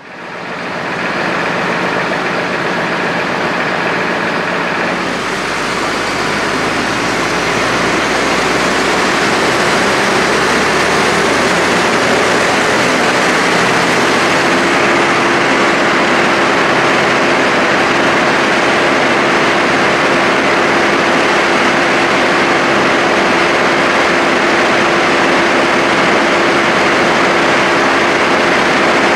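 Ufkes Greentec 952 Mega wood chipper and its machinery running steadily. The sound fades in at the start and builds up over the first several seconds, with a steady tone joining about halfway.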